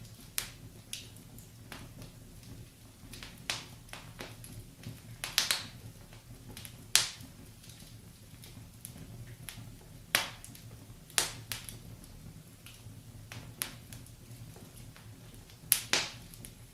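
Wood fire in a fireplace crackling: irregular sharp pops every second or so, some much louder than others, over a low steady background.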